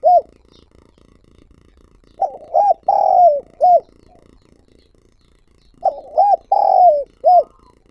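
Spotted dove cooing: two full phrases about three and a half seconds apart, each a few short notes, one longer drawn-out coo and a short closing note, with the tail of a previous phrase right at the start.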